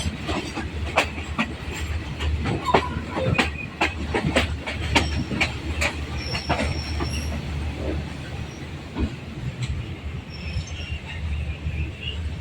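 Thai railway passenger train moving out of a station, its wheels clacking over rail joints and points over a steady low rumble. The clacks come thick in the first half and thin out later. A brief high wheel squeal comes about six seconds in and again near the end.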